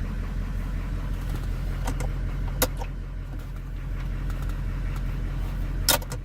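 GM 5.7-litre diesel V8 in a 1981 Cadillac Eldorado idling steadily while still warming up. Two sharp clicks stand out, about two and a half seconds in and near the end.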